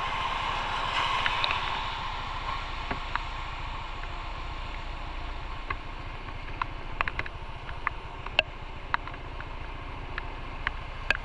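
Motorcycle engine idling with a steady low rumble, with scattered light ticks and clicks over it.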